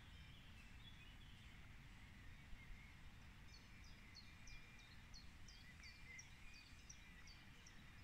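Faint outdoor ambience with a low rumble. From about three and a half seconds in, a small bird gives a quick series of short, high chirps, about three a second.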